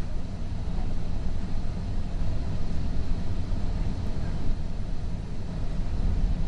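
Steady low rumble of a Metrolink passenger car rolling along the tracks, heard from inside the car.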